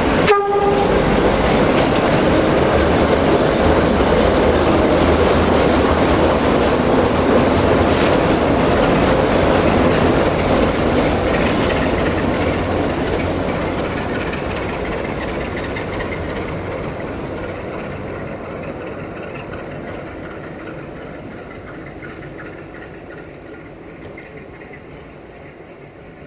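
A train passing, opening with a very short horn toot. The running noise stays loud for about twelve seconds, then fades steadily as the train draws away.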